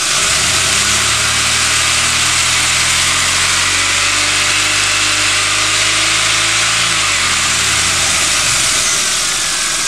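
A 2001 Pontiac Bonneville's 3800 Series II V6 is revved up from idle within the first second. It is held at raised revs for about six seconds, then drops back to idle near the end. The rev is given to push the last air bubbles out of the freshly refilled cooling system.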